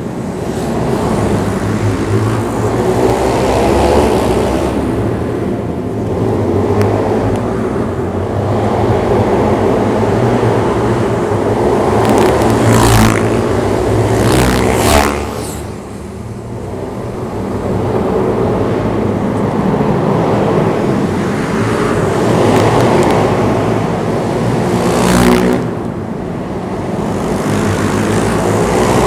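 Pit bike engine running hard, its pitch and loudness rising and falling as it revs up and eases off, with a few short bursts of hiss and two clear drops in level in the second half.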